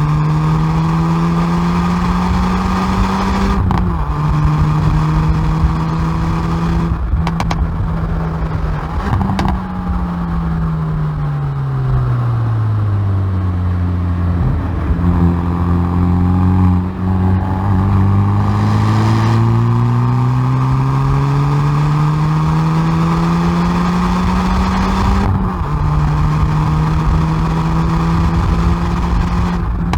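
Hyundai i30N Performance's turbocharged 2.0-litre four-cylinder, heard from its exhaust at the rear bumper, revving hard up through the gears. The pitch drops suddenly at quick upshifts about four seconds in and again about three-quarters of the way through. In the middle the revs fall away steadily as the car slows, hold low for a few seconds, then climb again.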